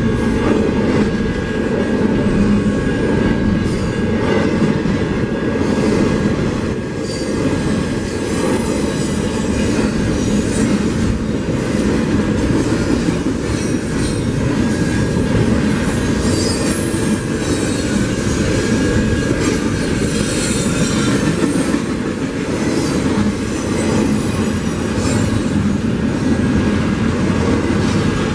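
Double-stack intermodal cars of a Union Pacific freight train rolling past close by: a loud, steady rumble of steel wheels on rail, with high wheel squeal coming and going.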